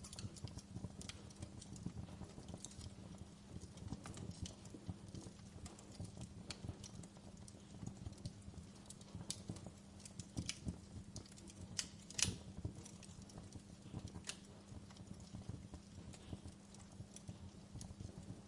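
Wood fire crackling in a fireplace: irregular sharp pops and snaps over a low steady rumble of burning, with one louder pop about twelve seconds in.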